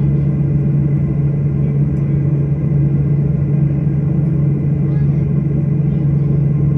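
Steady low drone of an airliner's engines and air system heard inside the passenger cabin, a constant hum without change in level.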